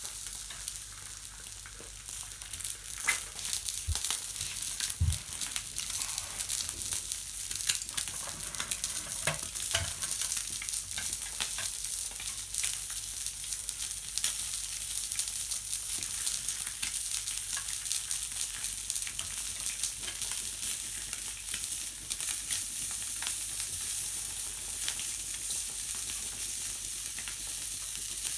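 Food sizzling and crackling steadily in a campfire frying pan, with scattered sharp clicks and scrapes as it is stirred or moved in the pan.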